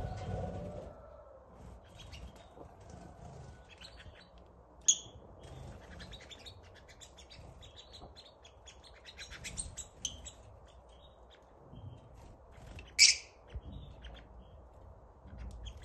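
Small birds chirping in a rapid scatter of short, high chirps, with two louder sharp calls about five seconds in and again near thirteen seconds.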